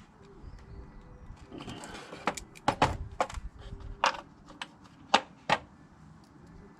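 A run of sharp clicks and knocks from parts being handled, loudest a little after five seconds in, over a faint steady hum.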